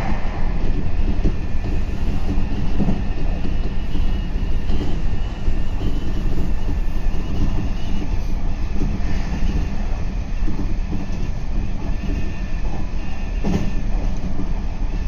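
Meitetsu 3500 series electric train running along the line, heard from inside the front car: a steady rumble of wheels on rail with a faint high whine over it. There is a single knock about thirteen seconds in.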